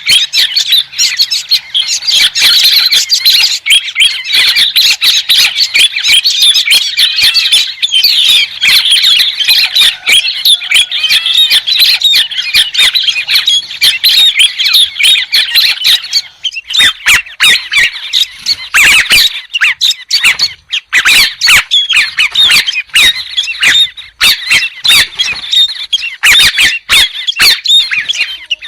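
Birds calling in a loud, dense chatter of harsh squawks, the 'héc soan' or white-headed bird call of a luring track; about halfway through the calls break up into sharper separate bursts with short gaps.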